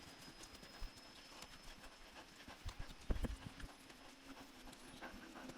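Faint, irregular footsteps of hikers on a stony trail: scattered clicks and knocks of shoes on rocks, with a short cluster of louder steps about three seconds in.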